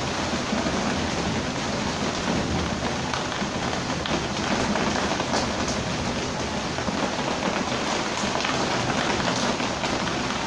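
Heavy rain falling steadily, an even hiss with an occasional louder drop.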